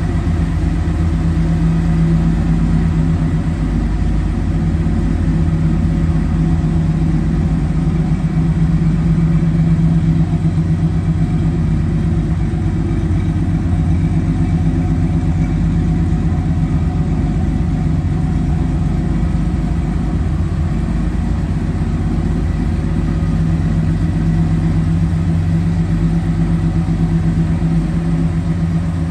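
1977 Datsun 280Z's straight-six engine idling steadily.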